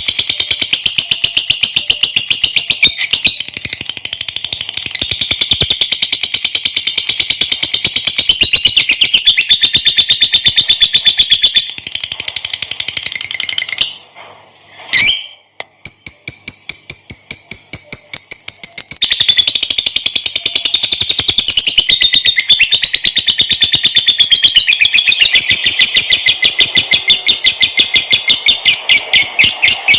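Lovebird giving its long, high-pitched chattering trill (ngekek panjang), a very rapid run of repeated notes. The trill breaks off about halfway through for a moment with a single short call, then starts again.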